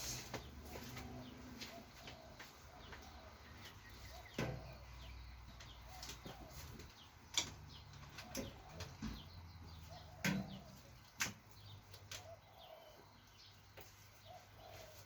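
Scattered sharp clicks and knocks as parts of a RockShox Judy suspension fork and hand tools are handled, over a low steady hum, with faint bird calls in the background.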